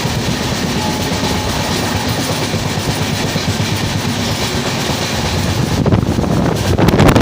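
Moving train running along the track: a steady low rumble of wheels on rails, growing louder and rougher in the last second or so.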